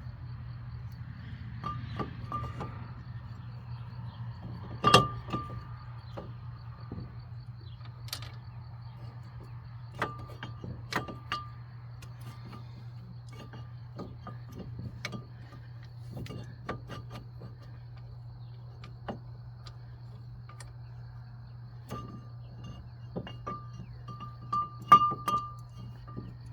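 Irregular sharp metallic clinks and clanks of hand tools and brake parts being handled, several ringing briefly, the loudest about five seconds in and again near the end. A steady low hum runs underneath.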